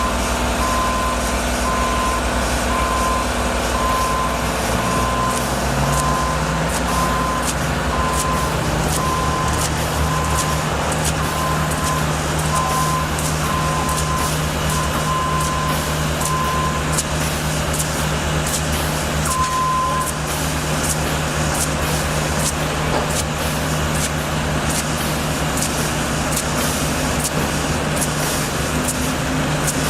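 Heavy construction vehicle backing up: its diesel engine runs steadily under a single-tone reversing alarm beeping about once every second and a half. The beeping stops about halfway through, with one last beep a few seconds later. The engine revs up early on, and rapid clicking and rattling runs through the second half.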